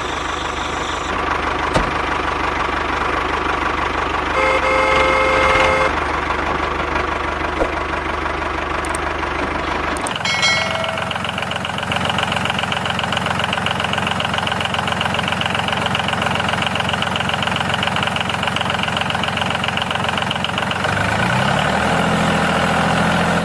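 An engine running steadily with an even, rapid pulse. The sound changes abruptly about ten seconds in and then runs on steadily.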